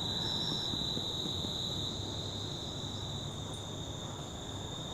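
Steady, high-pitched chorus of insects, like crickets, droning on one note over a low background rumble; the chorus eases slightly in the last second and a half.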